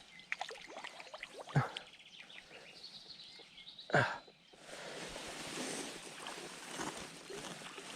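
Scattered rustling and clicking handling noise, with two louder thumps about a second and a half in and about four seconds in, then a steady hiss.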